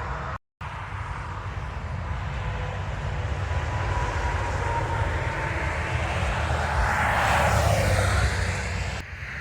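Interstate highway traffic: a steady rumble of tractor-trailers and tyres, with one big rig passing close and loudest about seven to eight seconds in, its pitch sweeping as it goes by.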